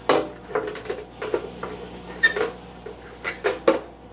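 Plastic aquarium filter parts clacking and knocking as they are handled and fitted into a small tank: a string of irregular sharp knocks.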